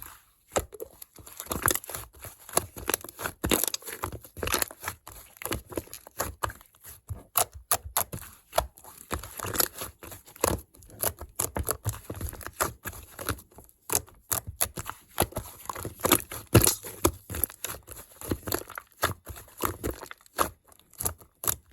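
Slime being squished and played with by hand: dense, irregular small clicks and crackles, with a few louder pops about three and a half seconds in and again at sixteen and a half seconds.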